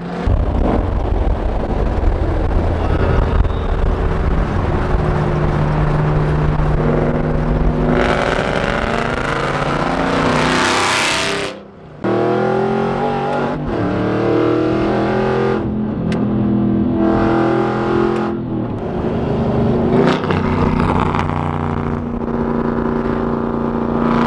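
Straight-piped Aston Martin Vantage exhaust, very loud, accelerating hard through the gears, its note stepping up and falling back with each shift. About halfway through, the sound swells into a rising rush and then drops out briefly before the engine note returns.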